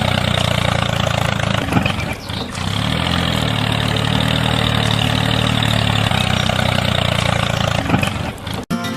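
Engine running steadily, with a brief dip and wobble in pitch about two seconds in. It cuts off abruptly just before the end.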